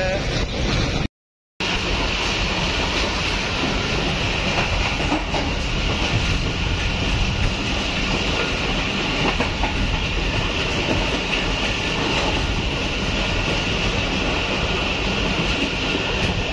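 Pakistan Railways passenger train running along the track: the steady noise of the coaches' wheels on the rails, with a brief cut-out of all sound about a second in.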